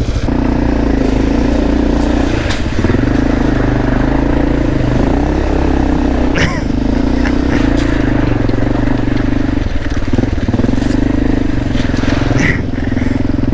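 Dirt bike engine running at a fairly steady pitch while being ridden, with a couple of sharp knocks about two and a half and six and a half seconds in.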